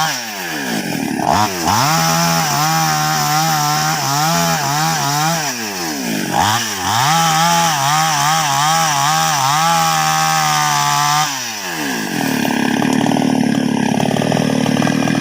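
Two-stroke chainsaw cutting into the trunk of a large sengon tree during felling. It runs at high revs with its pitch wavering under load, the throttle is let off and opened again several times, and near the end it runs at a lower, rougher pitch.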